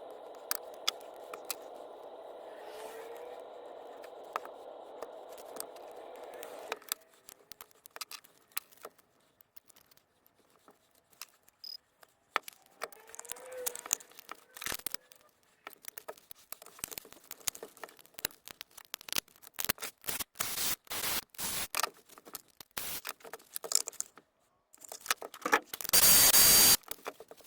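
Clicks, scrapes and rattling handling noises of hands-on repair work, with a steady noise for the first several seconds and a loud burst of noise about a second long near the end.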